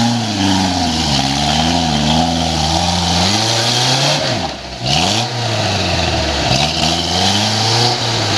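Off-road buggy engine revving up and down under load, its pitch rising and falling. About halfway through it drops off briefly, then revs back up.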